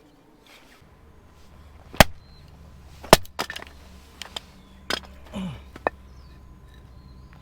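Six or so sharp knocks at irregular intervals, the loudest about two seconds in and just after three seconds, over a low steady hum.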